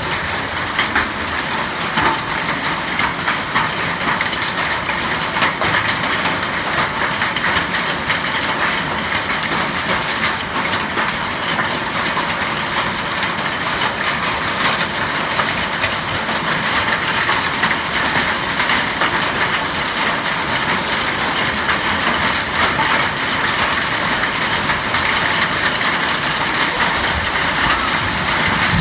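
Hailstones pelting down hard: a dense, steady clatter of countless small impacts.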